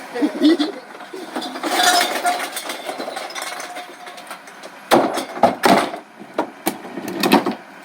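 Recycling being handled: a stretch of rustling and scraping, then a cluster of sharp knocks and bangs about five seconds in as items are tossed about.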